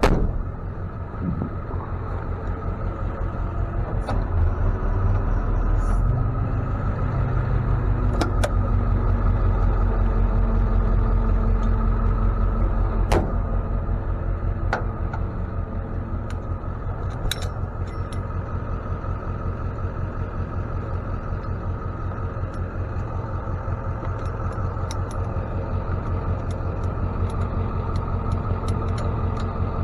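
A truck engine running steadily with an even low pulse. It picks up about six seconds in, holds there, and eases back after about fourteen seconds. A few sharp clicks or knocks sound over it.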